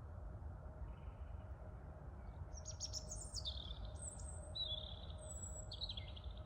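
A songbird singing: a quick burst of high stuttering notes, then a few drawn-out whistles, some falling in pitch. Underneath is a steady low rumble of wind and distant city traffic.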